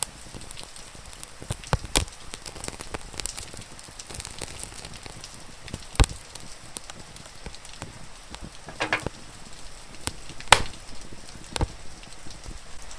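Wood fire crackling, with sharp pops and snaps every few seconds, the loudest about six and ten and a half seconds in, over the steady hiss of rain.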